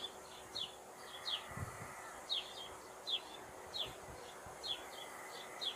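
A small bird chirping over and over, short high notes that slide downward, about two a second, over faint outdoor background noise.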